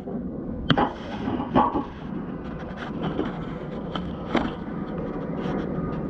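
Garden hose spraying water under an air conditioner's outdoor unit, a steady hiss broken by several sharp knocks and clatters, the loudest about a second in and again near four and a half seconds.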